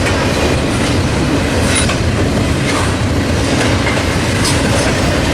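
A train's cars rolling past close by, their wheels running on the rails in a steady, loud noise.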